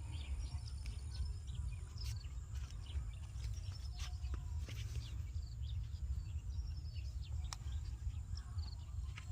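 Small birds chirping in short repeated trills over a steady low rumble, with scattered sharp clicks.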